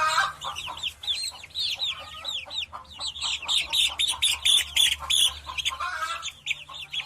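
Bird calls used as the sound effect for a bird: a rapid run of short, high chirps, several a second, over a faint steady low hum.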